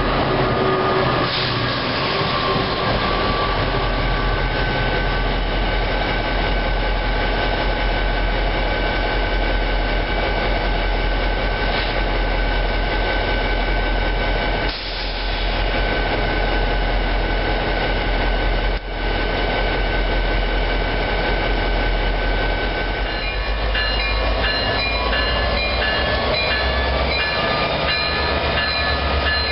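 NJ Transit trains running through the station: the steady rumble and rail noise of passing multilevel coaches, then of the ballast train headed by diesel locomotive 4300. A rapidly repeating high ringing joins in after about three quarters of the clip.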